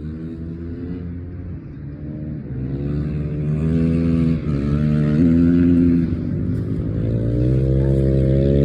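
An engine running and accelerating, getting louder about a third of the way in. Its pitch climbs and briefly drops twice, like gear changes.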